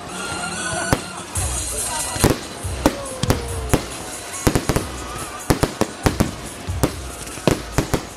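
Fireworks going off: many sharp bangs at irregular intervals, several close together, over continuous background music.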